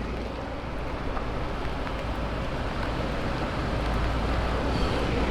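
Heavy rain pattering on the car's roof and glass, heard from inside the cabin as a steady hiss over the low hum of the idling engine.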